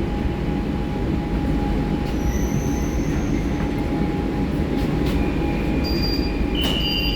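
Kolkata Metro train running on the track, heard from inside the carriage: a steady rumble, with thin squealing tones from the wheels or brakes joining in the second half as the train comes into Behala Bazar station.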